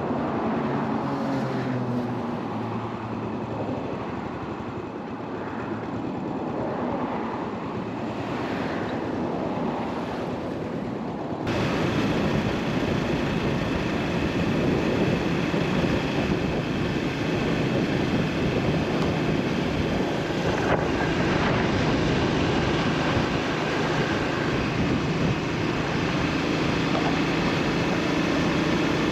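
2003 Yamaha SR400's carburetted single-cylinder engine running on the road, with wind and road noise. Its note falls in the first few seconds; after a cut about eleven seconds in, the sound is louder and steady at cruising speed.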